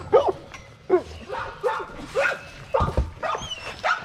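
Dogs barking and yipping in short calls, about two a second.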